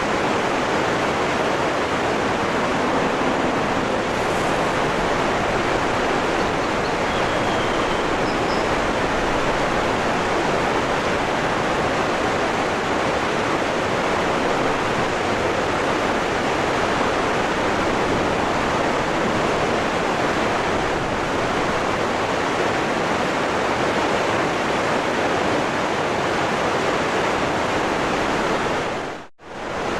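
Waterfall rushing steadily, a dense even roar of falling water, with a sudden brief drop-out near the end.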